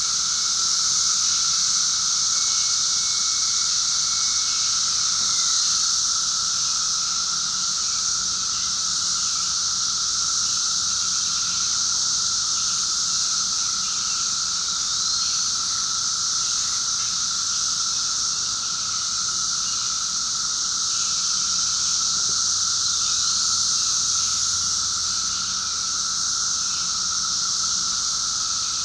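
Loud chorus of cicadas buzzing steadily, with a short rising chirp every five seconds or so.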